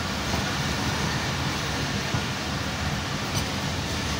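Passenger train pulling into a station, a steady rumble of coach wheels on the rails heard from an open coach door.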